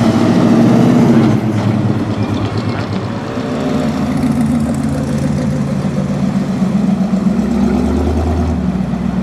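Car engine running with a steady low rumble that drifts slightly in pitch.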